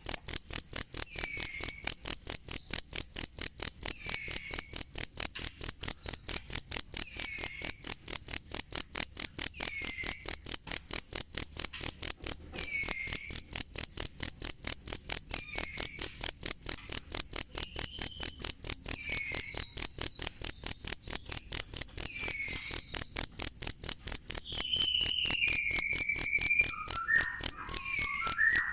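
Cricket chirping in a rapid, even, shrill pulse train that never lets up. Faint short calls repeat beneath it about every one and a half seconds, and a longer falling call comes near the end.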